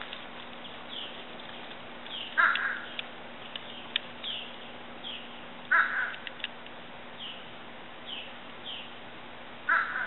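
Bird calls: three loud, short calls about three and a half seconds apart, the last near the end, over another bird's repeated short, high, falling chirps.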